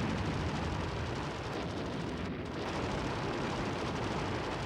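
Battle sound effects: a continuous rumbling din of explosions and gunfire, with no single blast standing out.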